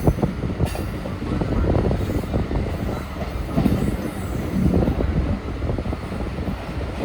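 Suburban EMU train running through a station: a steady rumble of wheels on track with irregular knocks and clatter from the rails.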